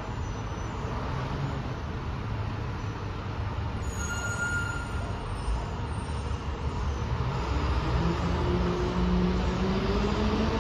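Train rumbling on the rails, growing louder, with a whine that rises slowly in pitch from about eight seconds in as the train speeds up.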